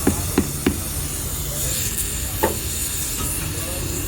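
A quick run of sharp knocks, about three a second, stopping just under a second in, then one more knock about two and a half seconds in, over a steady low workshop hum and a high hiss.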